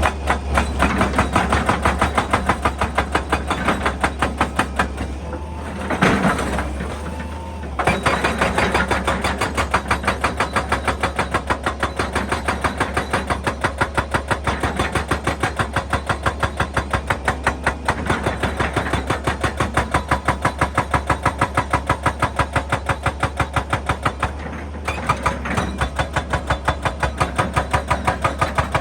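Excavator-mounted hydraulic breaker hammering rock in rapid, even blows over the low hum of the excavator's engine. The hammering pauses twice, for a few seconds about a fifth of the way in and briefly near the end.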